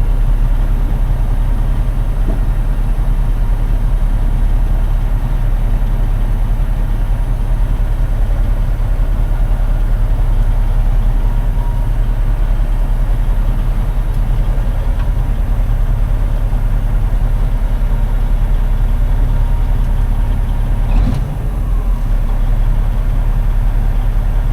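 Semi-truck diesel engine running, heard from inside the cab as a loud, steady low rumble. A brief knock comes about 21 seconds in.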